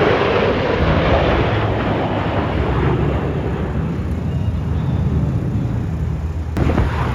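Engine noise of military display aircraft flying a formation pass overhead, fading over the first few seconds and building again near the end as more aircraft come through.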